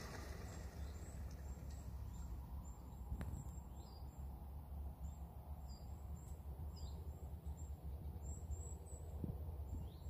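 Small birds chirping in the garden trees: thin, high chirps repeating throughout, with a few short falling notes, over a low steady rumble.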